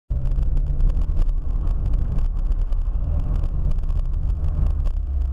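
Road and engine noise of a moving car as picked up by a dash camera inside it: a steady low rumble with frequent light clicks and rattles.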